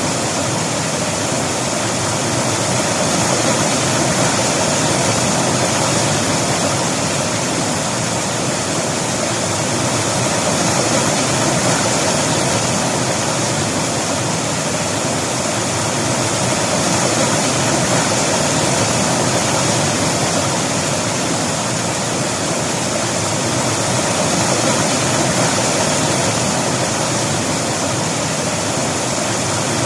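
River water rushing over rocks, a steady, full-range rush that swells and eases slightly every few seconds.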